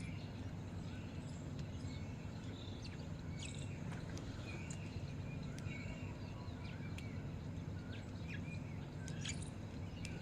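A flock of birds chirping and twittering in short scattered calls, over a steady low hum.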